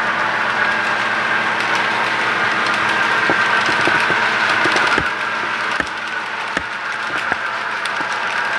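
HO scale model train running on the layout: a steady running noise, with a row of sharp clicks in the second half, under a second apart.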